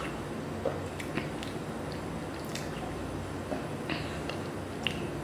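Close-up wet chewing of soft, milk-soaked cake, with scattered mouth smacks and clicks over a steady low background hum. About four seconds in, a spoon dips into a glass bowl of milk.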